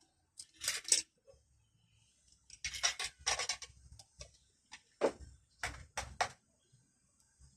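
Hard objects being handled: several bouts of clattering and scraping with sharp clicks, in three clusters separated by short pauses.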